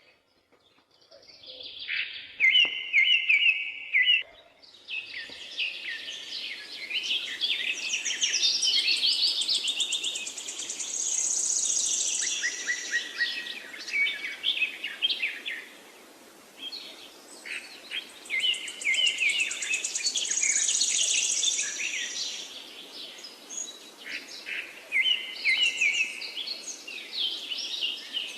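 Wild songbirds singing and chirping in a dense chorus of overlapping short phrases, with a high trill twice, over a faint steady hiss.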